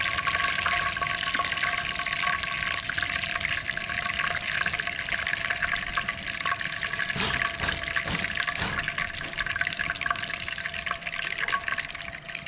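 Food frying in hot oil in a pan: a steady sizzle full of small crackles, with a few knocks about halfway through. A faint steady tone runs underneath.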